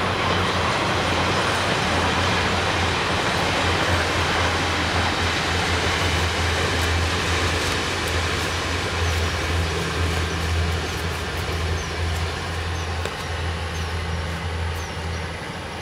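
Train passing, a loud continuous rumble with a steady low hum underneath, easing off slightly toward the end.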